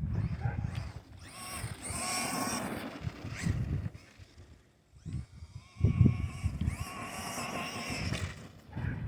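Arrma Vorteks 2WD brushless RC truck's motor whining under throttle in two runs, each a second or two long, over low rumbling knocks.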